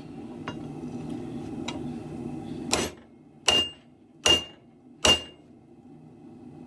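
Hand hammer striking a steel sword blade: two faint taps, then four sharp blows about three-quarters of a second apart, the last three each leaving a short high ring as the blade is hammered straight.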